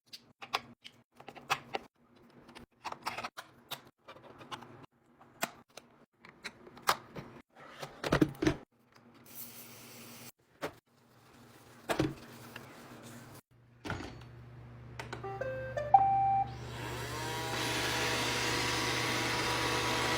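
Scattered clicks and knocks of the robot vacuum being handled. Then the ILIFE V3s Pro robot vacuum switches on: a low hum, a short stepped beep tune, and its suction and brush motors spinning up to a steady whir.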